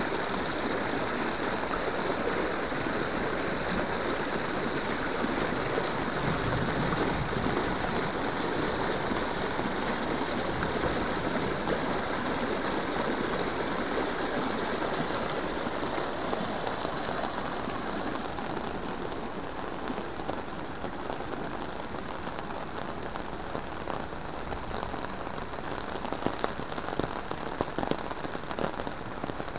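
Heavy rain as a steady, dense hiss of drops on puddled concrete, leaves and muddy ground. It eases slightly about two-thirds of the way through, and a few sharper taps come near the end.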